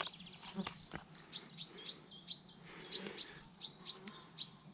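Small songbird chirping over and over: short, high notes that each drop quickly in pitch, about two or three a second.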